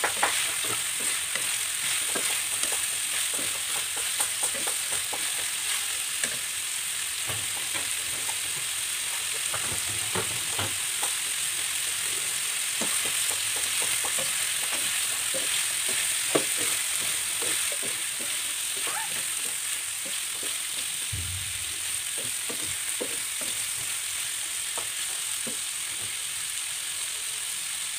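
Chicken pieces sizzling steadily as they fry in a frying pan, with a wooden spatula stirring and scraping against the pan in many small clicks and taps.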